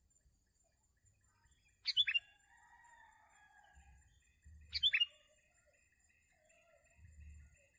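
Sooty-headed bulbuls calling: two loud, sharp downward-sweeping calls about three seconds apart, each followed by fainter chattering notes, with a few low bumps in the background.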